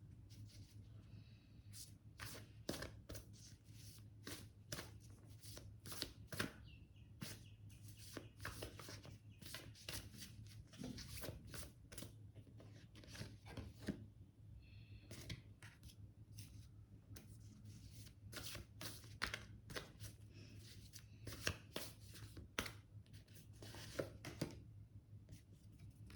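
A deck of tarot cards being shuffled and handled: a long, irregular run of light card snaps and slaps.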